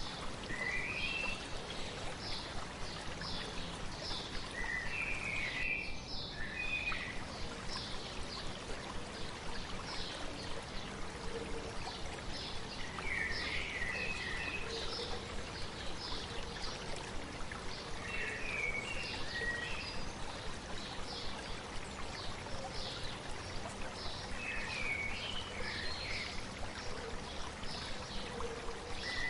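A stream running steadily with birds singing over it: a repeated high chirp a couple of times a second, and a short warbled song phrase about every five seconds.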